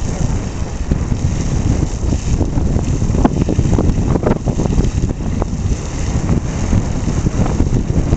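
Heavy wind rumble buffeting the camera microphone, over a steady rushing hiss, with a few brief crackles near the middle.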